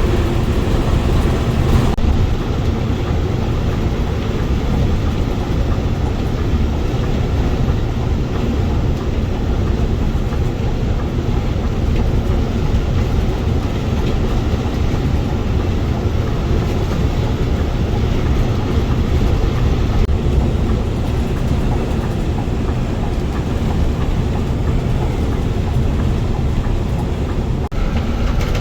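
Steady engine and road rumble of a moving Scania bus, heard from inside the cabin.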